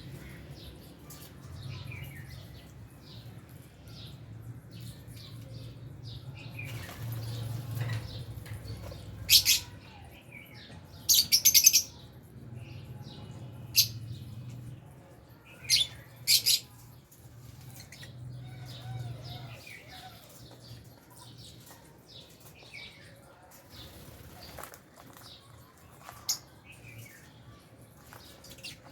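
A flock of lovebirds chirping continuously in short high calls, with a few much louder, harsh shrieks in the middle.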